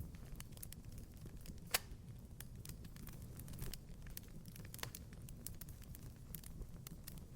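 Wood fire crackling in a fireplace: scattered small snaps and pops over a low steady rumble, with a sharper pop about two seconds in and another near five seconds.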